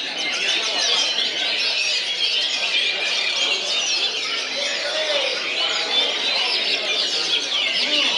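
Many caged songbirds singing at once in a dense, continuous chorus of overlapping high chirps, trills and whistles.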